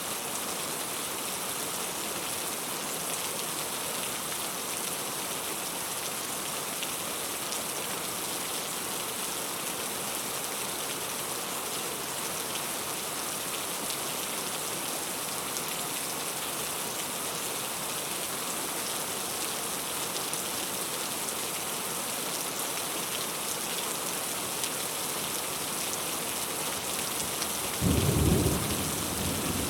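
Heavy rain falling steadily, with a sudden short, loud rumble of thunder near the end.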